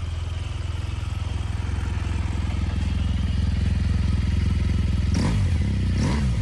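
BMW R1200GS boxer twin idling on its stock exhaust, then blipped twice near the end, the pitch rising and falling with each rev.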